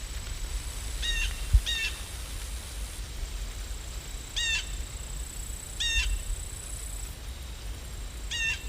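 A bird calling outside, five short calls in two pairs and a single, over a low rumble, with one low thump about one and a half seconds in.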